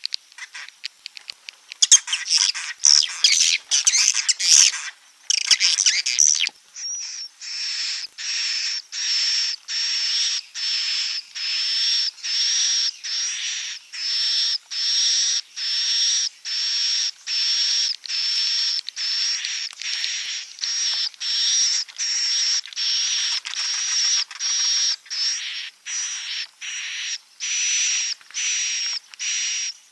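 Edible-nest swiftlet 'inap' (roosting) lure call: a few seconds of dense, high twittering chirps, then one high buzzy chirp repeating steadily about once a second. This is the call played to draw swiftlets in to roost and nest.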